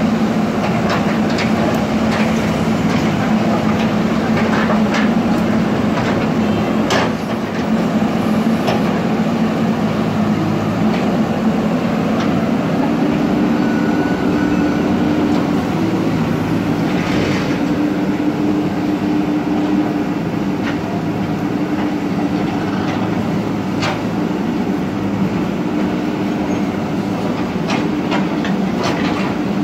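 Diesel engine of a JCB earth-mover running steadily under work, its pitch rising a little about halfway, with scattered clanks and knocks.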